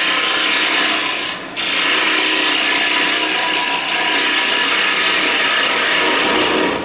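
Round carbide cutter of a hand-held hollowing tool cutting into a spinning wooden bowl on a lathe: a steady scraping hiss of the cut across the bowl's bottom. The cut breaks off briefly about a second and a half in.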